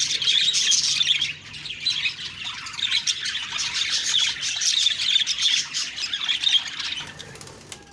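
Budgerigars chattering and warbling: a dense, fast stream of chirps and squawks that fades out near the end.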